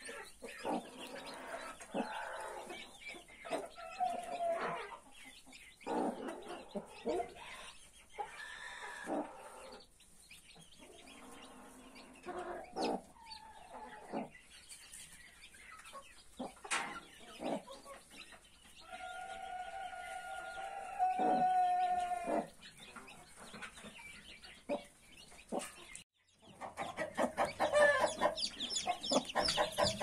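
Chickens clucking in short, scattered calls, with one long rooster crow about twenty seconds in. After a brief break near the end, the clucking turns denser and louder.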